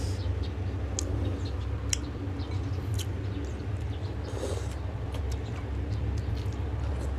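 Close-up eating sounds: chewing, with scattered short wet mouth clicks and smacks, over a steady low background hum.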